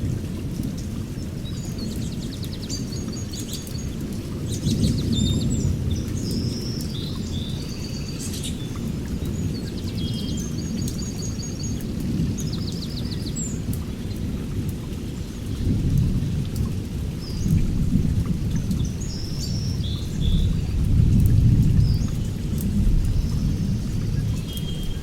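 Songbirds chirping and trilling in short repeated phrases, over a low rumble that swells and fades several times.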